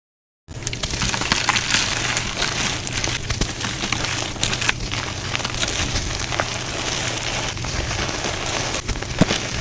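Blocks of dyed gym chalk being crushed and crumbling, a dense crackling with many small sharp snaps, starting about half a second in.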